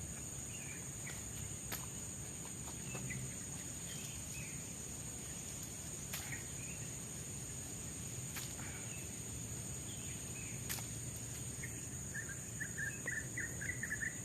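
Tropical forest ambience: a steady high-pitched insect drone with scattered short bird chirps and a few sharp clicks. Near the end a bird gives a fast run of repeated chirps.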